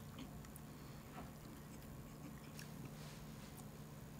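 Faint chewing of braised snack food, with a few soft clicks, over a steady low hum.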